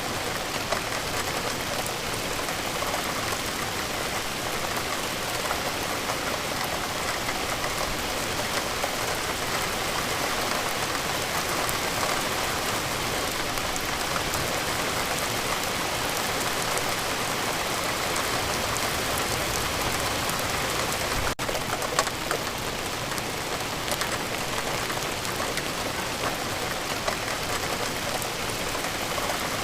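Steady rain falling, with many scattered drops ticking on a surface. There is a momentary break in the sound about two-thirds of the way through.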